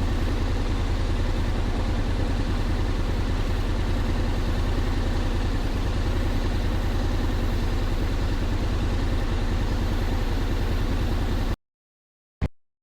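Honda Forza 750 maxi-scooter engine running with a steady low rumble. It cuts off suddenly near the end, followed by a single short click.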